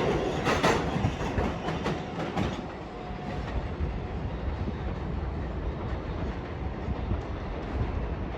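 R188 subway train's wheels clacking over rail joints as it pulls away, the clatter dying out about two and a half seconds in and leaving a steady low rumble.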